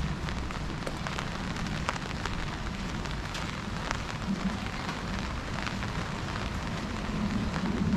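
Steady rain falling, with many small sharp ticks of drops striking close by.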